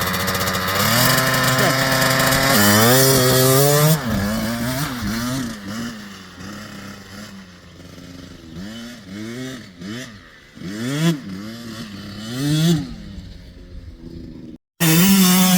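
Husqvarna TC65 two-stroke youth dirt bike engine revving up hard as the bike pulls away. It then rises and falls in pitch again and again as the throttle is worked, growing fainter as it rides off. Near the end the sound cuts out for a moment and comes back as a loud, steady engine note.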